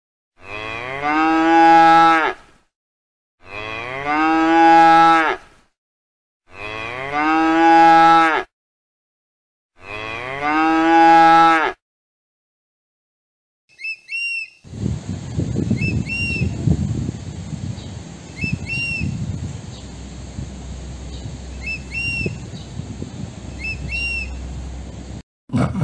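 Cow mooing: four long, drawn-out moos of the same shape, each about two seconds, about three seconds apart. After a short pause, a low rumbling noise runs for about eleven seconds with a short high chirp repeating about once a second.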